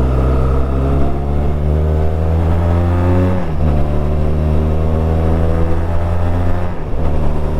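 Benelli TRK 502 motorcycle's parallel-twin engine accelerating under way: its note rises, falls abruptly at an upshift about three and a half seconds in, climbs again, and drops at a second shift near the end.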